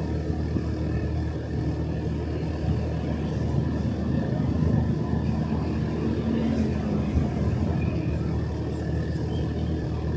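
Motorcycle engine running steadily under way, with road and wind noise; a brief extra engine note swells and fades around the middle.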